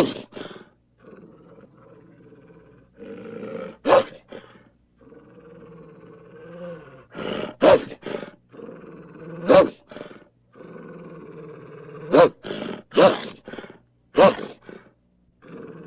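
Digitally edited hamster sounds: drawn-out, low pitched cries alternating with short, loud, sharp sounds every second or two.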